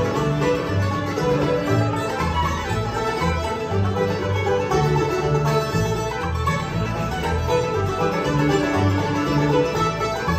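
Bluegrass band playing an instrumental passage: banjo picking over guitar, with steady low bass notes changing about twice a second.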